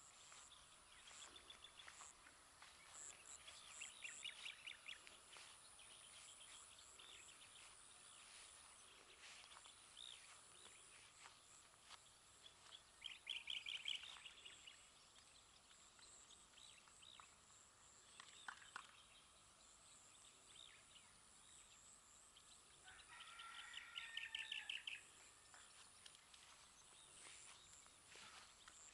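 Faint outdoor ambience with birds calling: a few bursts of rapid chirping, the loudest about halfway through and again near the end.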